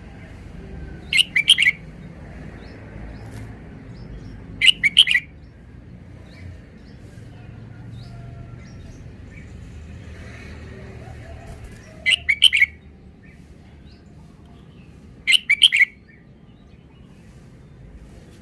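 Red-whiskered bulbul singing four short, loud song phrases, each about half a second long and spaced several seconds apart.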